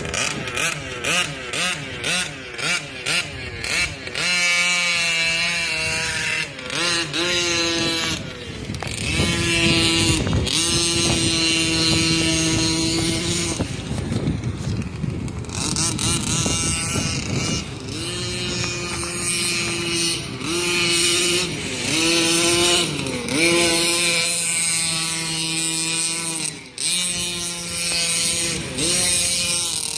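Scott Finlay 34cc two-stroke engine of a gas-powered Losi Monster Truck XL. It is blipped in quick bursts for the first few seconds, then revved hard in long pulls whose pitch climbs and falls, with brief drops off the throttle between them.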